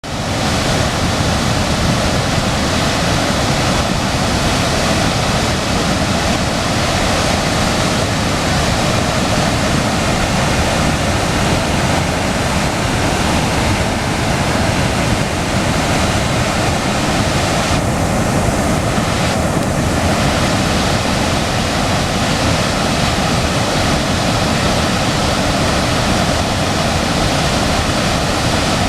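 Waterfall: falling water rushing loudly and steadily, with no breaks.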